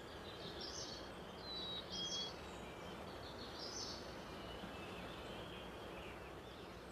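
Woodland ambience: a few short, high bird chirps over a steady hiss.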